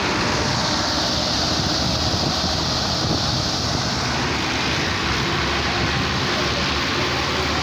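Tractor engine running steadily, under an even, continuous hiss.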